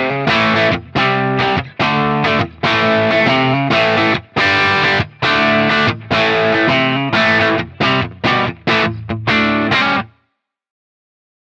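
Electric guitar played through a J. Rockett El Hombre overdrive pedal, giving a distorted tone, in choppy chord riffs with short breaks between phrases. The playing stops about ten seconds in, and the last second is silent.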